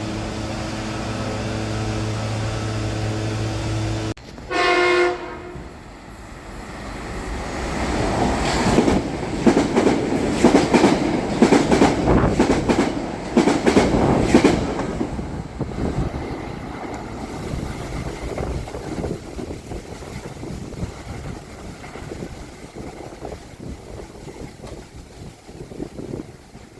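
A steady pitched hum, then after an abrupt change a short horn blast from a Metro-North electric commuter train, followed by the train rumbling past with wheels clattering over the rail joints, growing loud and then slowly fading away.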